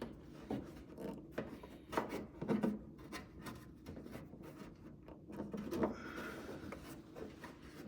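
Handling noises from a spoiler being fitted to a car's front end: scattered light knocks and clicks with some rubbing, coming every second or so with quieter gaps between.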